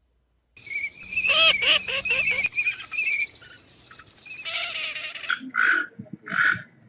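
Birds calling: a quick series of repeated chirps over a warbling trill, then several short harsh calls near the end. The calls start about half a second in.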